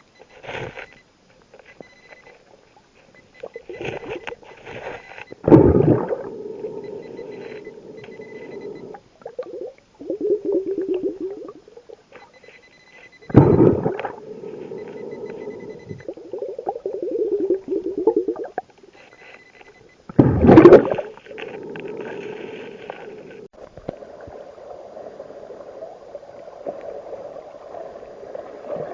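Underwater sound of a scuba diver breathing through a regulator. Three loud gushes of exhaled bubbles come about seven seconds apart, with a softer bubbling hum between them.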